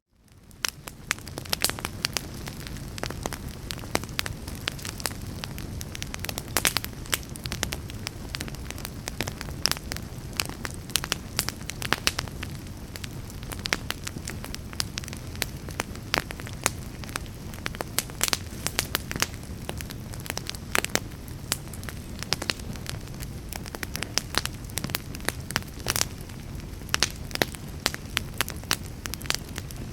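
Wood fire burning in a fireplace: a steady low rumble of flames with frequent crackles and sharp pops. The sound fades in from near silence over the first second.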